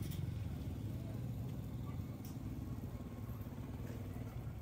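An engine running with a fast, low pulsing, easing off in loudness over the first two seconds and then holding steady.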